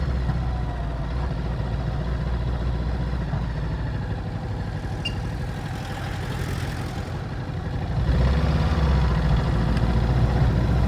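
Ducati Multistrada 950's 937 cc L-twin engine running steadily at low revs through its stock exhaust, getting louder about eight seconds in.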